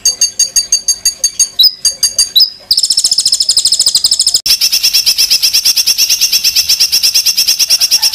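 Songbird song from a masteran recording of harsh, rapid 'tembakan' phrases: quick repeated sharp high chirps, then about three seconds in a fast high trill, which about a second and a half later turns into a denser, very fast rattling trill that stops abruptly.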